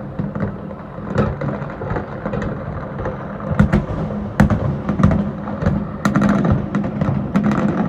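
Fireworks going off in a dense volley: a continuous low rumble of booms with many sharp pops and crackles over it.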